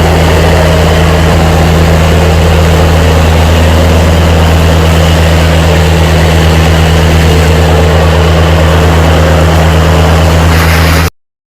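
Fire brigade disinfection vehicle's engine and mist sprayer running steadily: a loud, constant low engine hum under a rushing hiss. It cuts off suddenly near the end.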